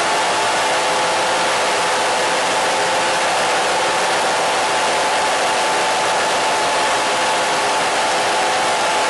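Radio static: a steady hiss with a few faint steady tones in the middle of the range running through it.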